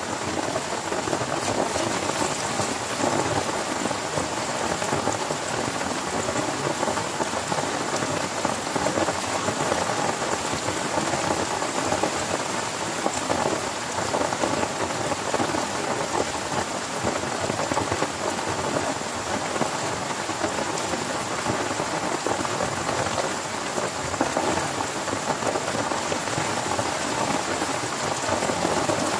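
Heavy rain falling steadily on a tent, a dense, even hiss of drops with no break.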